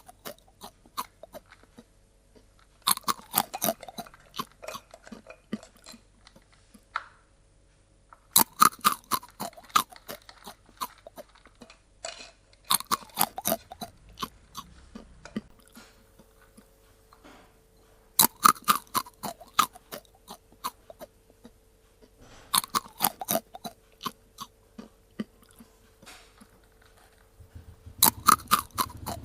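A cat crunching dry kibble. The chewing comes in quick bursts of sharp crunches, one to two seconds long, about every four to five seconds, with short pauses between mouthfuls.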